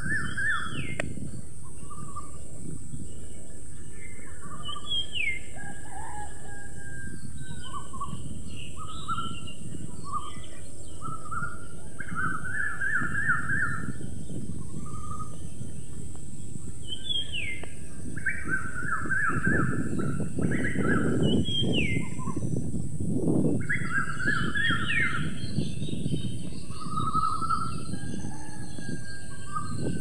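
Several songbirds chirping and singing in short phrases, with fast trills and quick rising whistled notes from several birds at once, over a steady low rushing background that swells for a few seconds about two-thirds of the way through.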